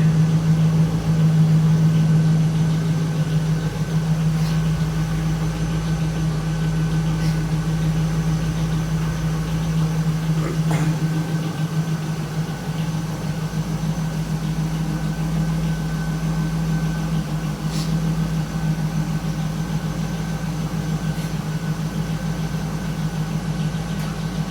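The 5.7-litre LS1 V8 of a 2002 Chevrolet Camaro SS SLP idling steadily at an even pitch, with no revving.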